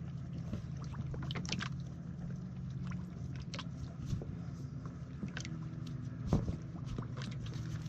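Dock line being tied off to a ballast bag's handle: scattered rustles and small clicks of rope and gear being handled, with one louder knock about six and a half seconds in, over a steady low hum.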